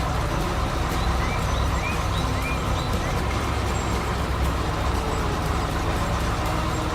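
A vehicle engine running steadily at a low rumble. Short rising bird chirps come several times in the first half.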